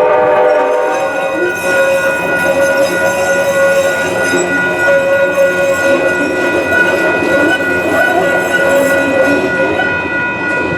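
A train horn chord ending about a second in, then a train running through the grade crossing: a steady rumble with several high ringing tones held over it.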